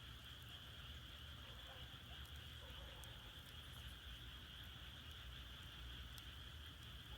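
Faint, steady chorus of frogs, a continuous high trill, with a couple of faint crackles from firewood burning in an agungi firebox.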